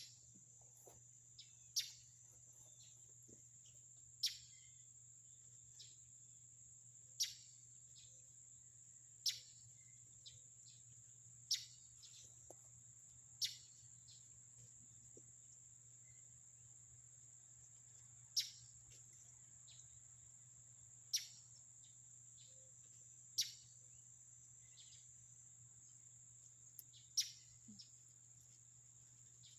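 Faint outdoor insect chorus: a steady high-pitched trill, with a bird giving a short, sharply falling call every two to three seconds over a low steady hum.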